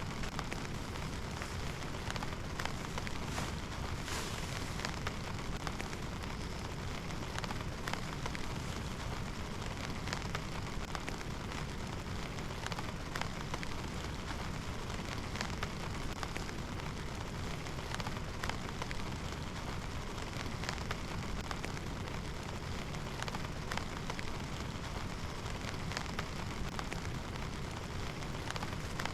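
Steady rain, with individual drops tapping sharply close by at irregular moments.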